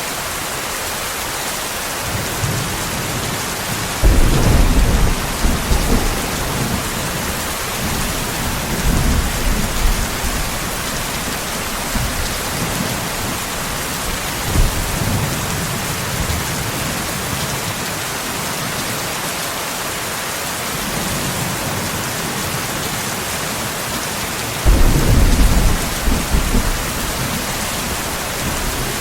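Steady rain with rolling thunder. A loud thunder rumble begins suddenly about four seconds in and another near the end, with fainter rumbles in between.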